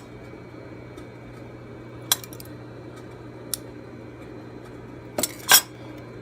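A few sharp metallic clicks from handling at a sewing machine, spaced out, with a louder double click near the end, over a steady low hum.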